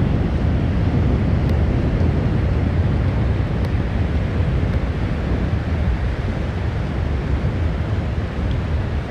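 Wind buffeting the microphone in a steady low rumble, over the wash of sea surf.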